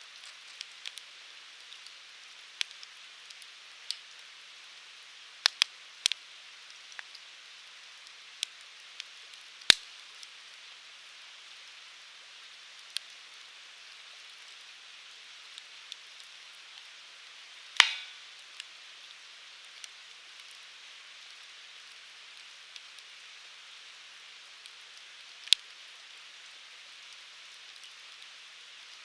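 Firewood burning in a Uniflame Fire Grill: a steady soft hiss with irregular sharp crackles and pops. The loudest snaps come about ten, eighteen and twenty-five seconds in.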